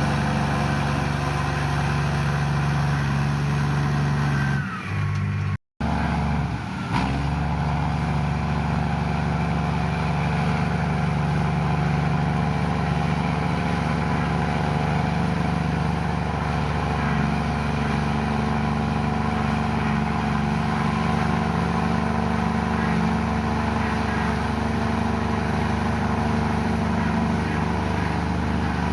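Komatsu bulldozer's diesel engine running steadily. The sound cuts out for a moment about six seconds in, then resumes just as steady.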